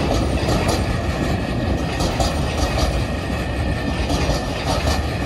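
Empty log wagons of a freight train rolling past at speed: a steady rumble of steel wheels on rail, with short clicks as the wheels cross rail joints.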